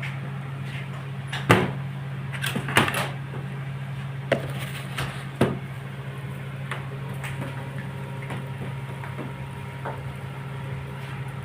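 A steady low hum with a scattering of sharp knocks and clatters, the loudest about one and a half seconds in.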